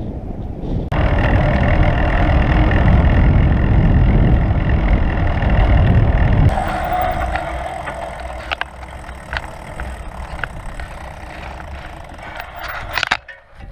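Wind and road noise from a moving bicycle ride: a loud, deep rumble that comes in sharply about a second in and drops away after about six seconds, leaving a lighter hiss with a few short clicks.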